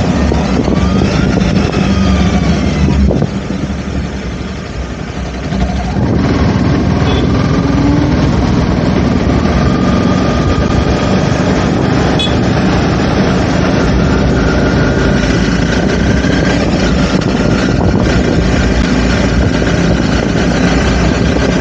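Honda CBR motorcycle running on the move, its engine note under heavy wind noise on the camera microphone. The sound drops back about three seconds in and picks up again around six seconds.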